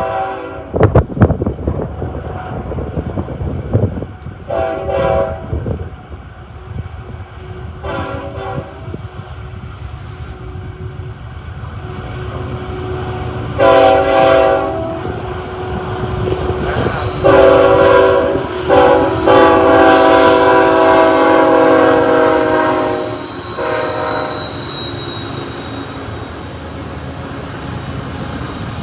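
Diesel freight locomotive's multi-chime air horn sounding about six blasts, two short ones, then longer ones, the longest about four seconds, followed by a short one. Underneath is the steady low rumble of the train, with wind buffeting the microphone near the start.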